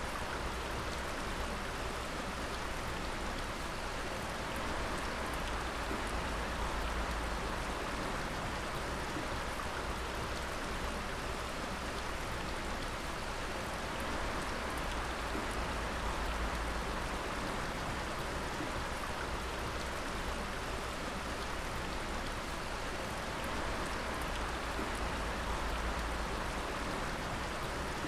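Water dripping continuously: many small drips pattering over a steady rush of water, without a break or change.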